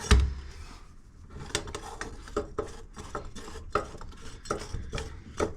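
Hand tools knocking and clinking irregularly against a shower drain fitting, a few sharp clicks a second, with a louder knock right at the start.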